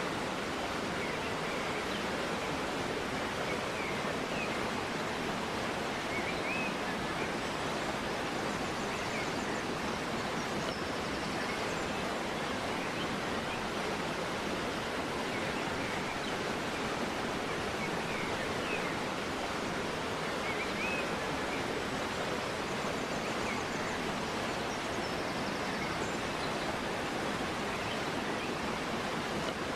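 Steady rushing of a river flowing through a forest, with a few faint bird chirps scattered over it.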